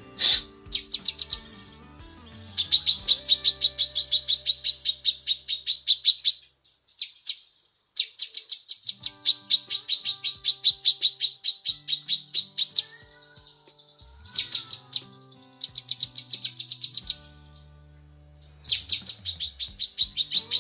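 Cucak kinoi singing long, fast trills of clipped high notes, about eight a second, in runs of several seconds broken by short pauses: the female's call to the male.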